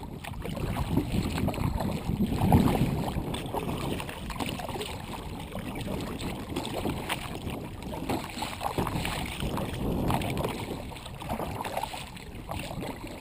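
Kayak paddle strokes in the water, with wind buffeting the microphone.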